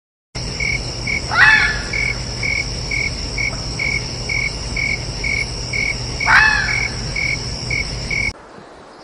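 A chorus of insects with a steady high drone and regular chirps about twice a second, broken twice by a short rising-then-falling animal call, about a second and a half in and again around six seconds. The chorus cuts off suddenly near the end.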